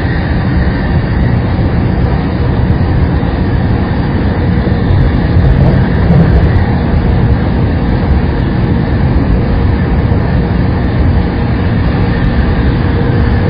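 Saikyo Line electric commuter train running at steady speed: a continuous, loud rumble of wheels on rails and running gear, with a faint steady whine over it.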